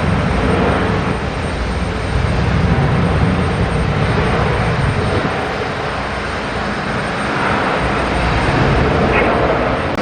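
Jet airliner engine noise: a loud, steady rush with a deep rumble underneath, swelling and easing slightly a few times.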